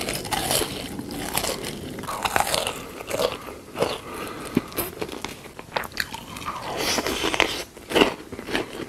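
Close-miked crunchy biting and chewing of food, a run of irregular crisp crunches with a few louder bites near the end.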